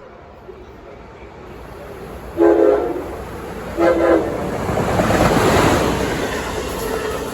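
Train horn sounding two short blasts, a few notes at once, while the rumble of the approaching train grows louder.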